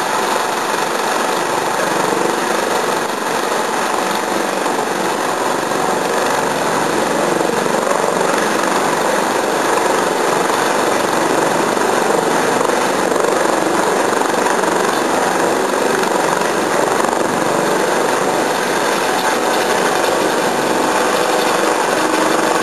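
Eurocopter AS365 Dauphin air-ambulance helicopter's twin turbines and rotor running steadily and loudly.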